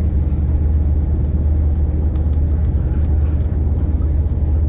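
Steady low rumble of a moving passenger train, heard from inside the carriage, with a few faint ticks over it.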